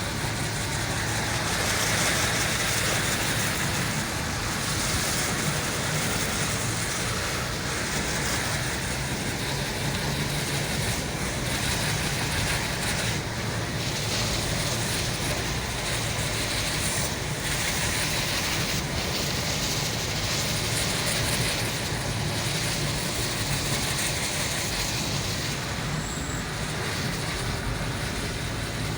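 Heavy rain falling, a steady dense hiss that holds at an even level throughout.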